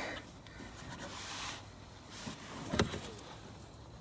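Faint handling noise with one sharp knock about three-quarters of the way through.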